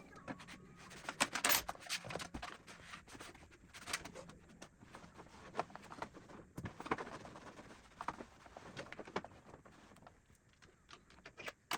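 Irregular light taps and clicks, several a second at times, over a faint background hiss, thinning out about ten seconds in.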